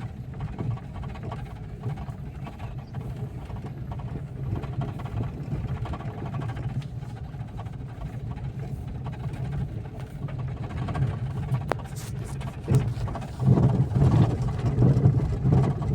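Car engine and road noise heard from inside the cabin while driving, a steady low rumble that grows louder in the last few seconds.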